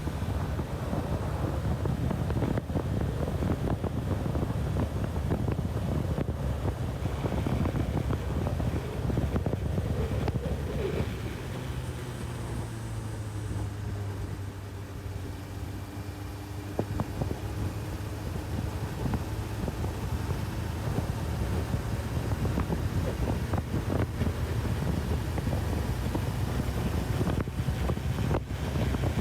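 Honda CB1000R's inline-four engine running on the road, largely covered by wind buffeting on the microphone. A little over ten seconds in, the wind eases and the engine's low hum comes through more clearly, sinking slightly in pitch, before the wind noise builds again.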